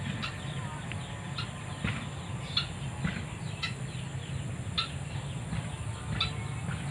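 White-breasted waterhen calling: short, sharp clucking notes repeated about once a second.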